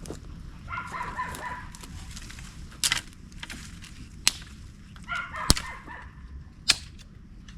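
A bird calls twice, about a second each time, with several sharp knocks or cracks in between over a steady low rumble.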